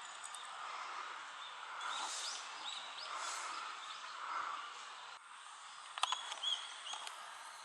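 Small birds chirping in short, sharp calls over a steady background hum, with a louder cluster of chirps about six seconds in.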